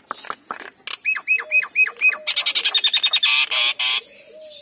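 Nias hill myna calling: a run of sharp clicks, then five quick hooked whistles, then a rapid, harsh chattering series lasting about two seconds that stops shortly before the end.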